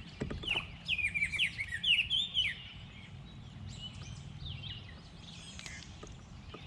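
A songbird singing: a quick run of short falling chirps in the first couple of seconds, then a few fainter chirps near the end.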